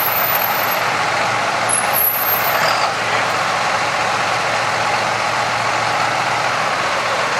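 Farm tractor engine running at a steady speed, with no revving up or down.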